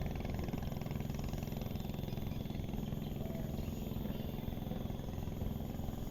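A small engine running steadily at an even idle-like pace.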